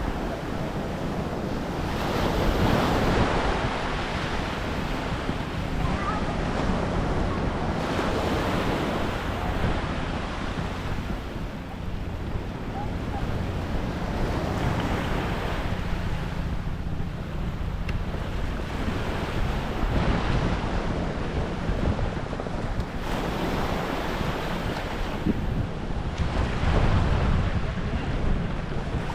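Waves washing onto a beach, surging every few seconds, with wind rumbling on the microphone.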